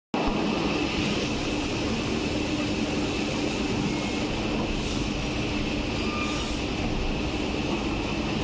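CNC machining center running steadily: a constant mechanical noise with a steady low hum and a thin high whine over it.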